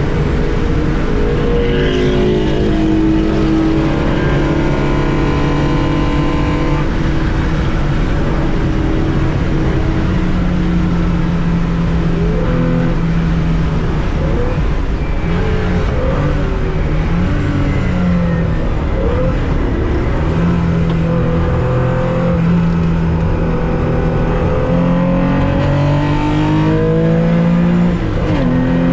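1965 Porsche 911 2.0's air-cooled flat-six racing engine heard from inside the cockpit, running hard under load. Its pitch climbs and drops through gear changes and lifts, with a sharp dip and rise near the end.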